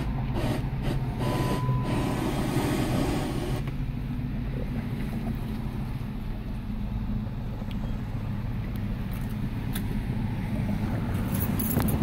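Dodge Magnum's 5.7-litre Hemi V8 idling steadily, heard from inside the cabin. A hiss over the first few seconds stops suddenly.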